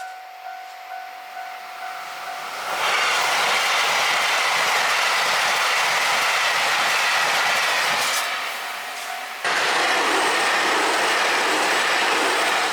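A level-crossing warning bell rings, pulsing about twice a second. About three seconds in it is swamped by a KiHa 261 series diesel limited express passing at speed: a loud rushing roar of engines and wheels with rail clatter. The roar eases briefly and then jumps back up suddenly near the end.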